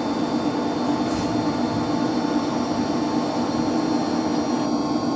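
Steady hum of running heating circulation pumps, with a constant low drone and a few steady higher tones.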